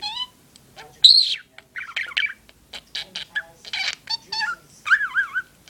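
Budgerigar chirping and warbling: a string of short high chirps, with one loud squawk about a second in and a run of quick up-and-down warbles near the end.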